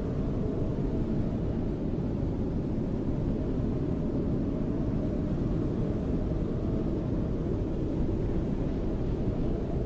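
Steady low howling wind of a snowstorm, an even rumble with no gusts standing out.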